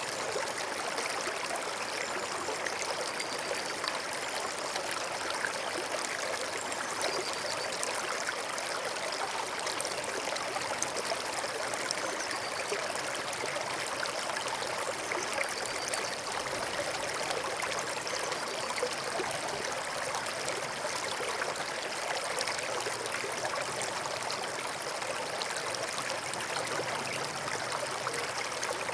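A forest stream flowing steadily, its water noise even and unbroken throughout.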